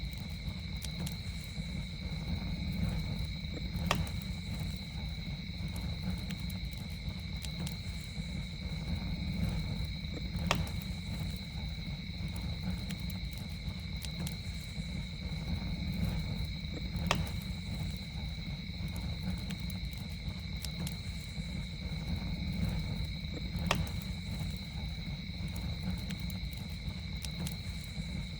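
Campfire burning with a low steady rumble and occasional sharp crackles and pops, the loudest about every six or seven seconds. A steady high insect chirring at two pitches, like crickets, runs underneath.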